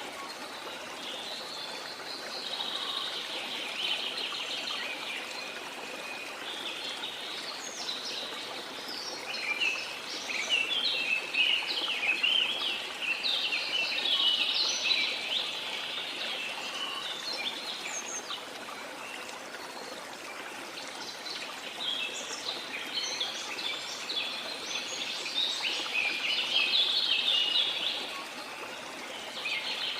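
Rain forest ambience: a flowing river running steadily under birds singing and chirping in quick bouts, busiest in the middle and again near the end.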